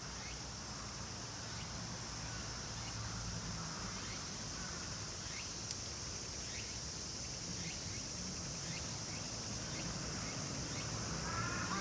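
Outdoor insect chorus: a steady, high-pitched drone, with faint short falling chirps about once a second and a low hum underneath.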